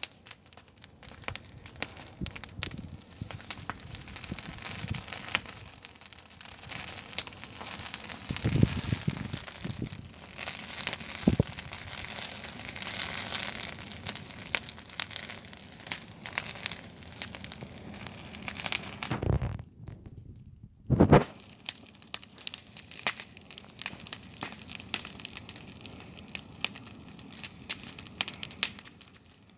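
Bonfire of cut pear-tree branches crackling and popping steadily, with a few low thumps; the sound drops out briefly about twenty seconds in.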